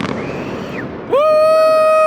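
A spectator's long, loud, steady "woo" cheer, rising into one held high note and sliding down at the end, starting about a second in as the fireworks die away.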